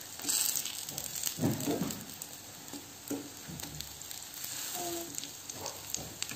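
Batter-coated zucchini slices shallow-frying in vegetable oil in a non-stick pan: steady sizzling with frequent crackles, as a fork turns a slice over. The sizzle swells about one to two seconds in.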